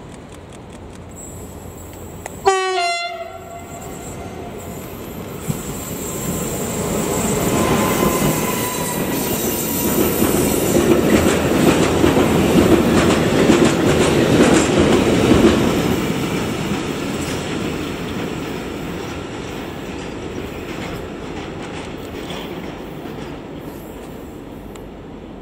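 Captrain E494 electric locomotive gives a short horn blast about two and a half seconds in, then passes hauling a freight train of tank wagons, the rumble and clatter of the wheels on the rails building to a peak and slowly fading as the wagons roll by.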